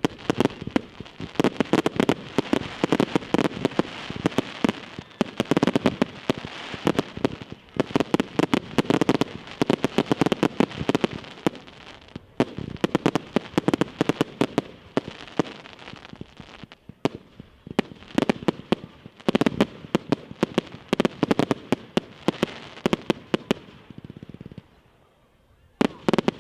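Fireworks display: rapid volleys of sharp bangs and crackling, coming in waves, then falling briefly quiet near the end before one more volley.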